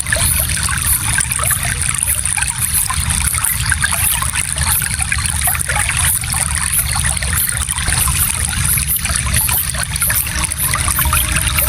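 A small stream flowing over stones, a steady babbling and trickling of water with many small splashes.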